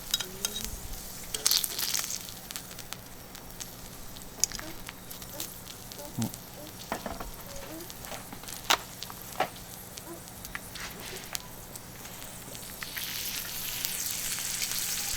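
Skirt steak sizzling on a thick iron griddle over charcoal, with scattered sharp pops and crackles of spitting fat. The sizzle swells louder over the last couple of seconds.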